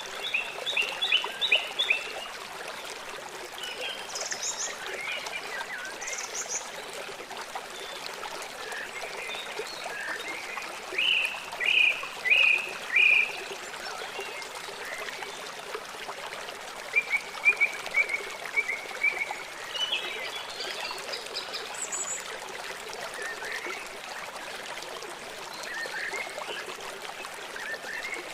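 Wild birds chirping and calling in short, scattered phrases over a steady rush of running water, with a run of four loud, evenly spaced notes midway and a quick trill a little after.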